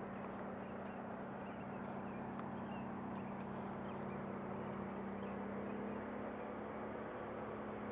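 35 hp Briggs & Stratton EFI V-twin engine driving a Go-Devil mud motor, running at a steady speed with a constant drone.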